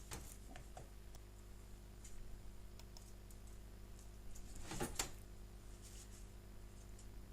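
Light clicks and handling knocks of plastic sander parts as an orbital sander's repaired base pad is fitted back into place, with a sharper knock about five seconds in.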